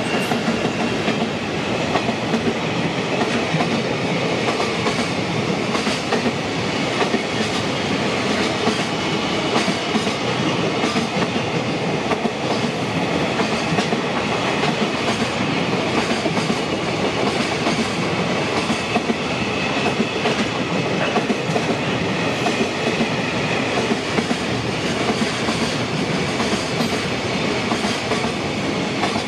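A long freight train's container flat wagons rolling past close by at speed: a steady loud rumble and clatter of wheels on the rails, with clickety-clack over the rail joints.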